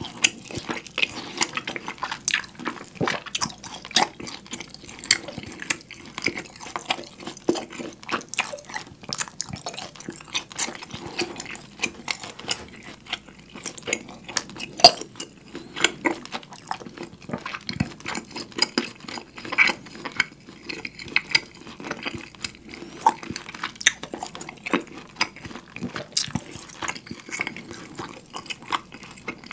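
Close-miked eating of a thick seared beef steak held in the hand: wet chewing with many short smacking clicks, and the meat tearing apart as it is pulled and bitten.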